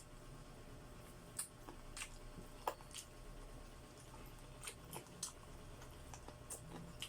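A person chewing chicken feet close to the microphone: soft wet mouth smacks and clicks coming irregularly, a couple per second.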